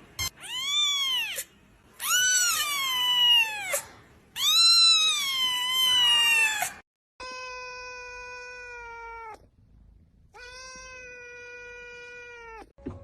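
A cat meowing three times, long drawn-out calls that rise and fall in pitch. Then come two quieter, perfectly steady held tones of about two seconds each.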